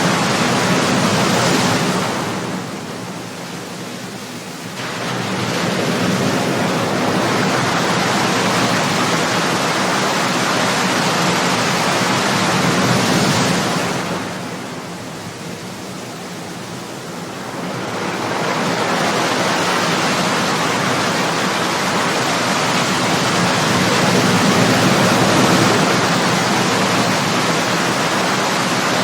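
Ocean surf: waves breaking and washing in as a steady rush of water noise, easing off twice as a wave draws back, about two seconds in and again around the middle.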